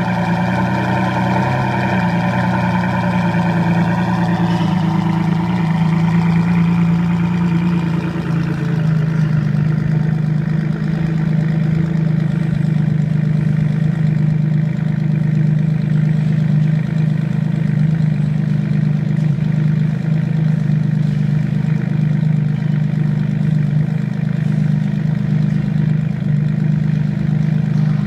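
Ferrari Enzo's 6.0-litre V12 idling steadily. The higher notes fade over the first several seconds, leaving a steady low drone.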